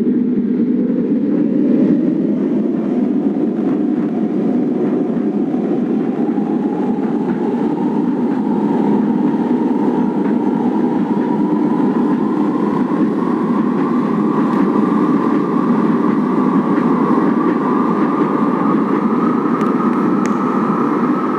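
Kinki Sharyo–Nippon Sharyo 1200-series light-rail train running, with a steady rumble of wheels on the rails. Over it, a whine rises slowly in pitch throughout as the train picks up speed.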